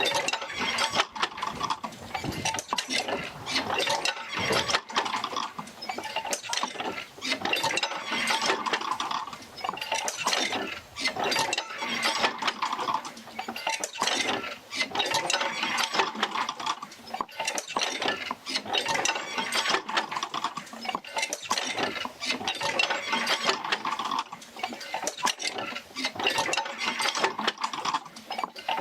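Oil field wheel turning as it works the jerker lines, with continuous clanking, clinking and creaking that swells and eases in a slow repeating cycle every few seconds.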